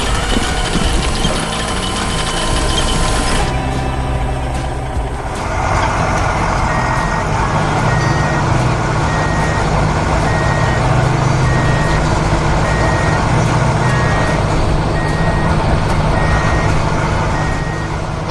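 Heavy truck engine running with a reversing alarm beeping steadily, a little more than once a second, starting about seven seconds in.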